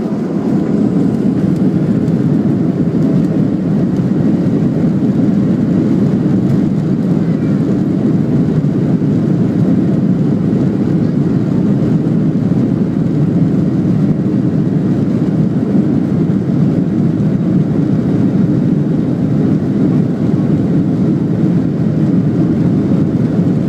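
Boeing 737-800's CFM56-7B jet engines at take-off thrust during the take-off roll. A loud, dense rumble swells at the start, then holds steady.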